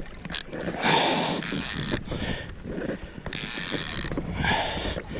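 Penn spinning reel being wound in bursts as a hooked fish is brought in, its gears ratcheting.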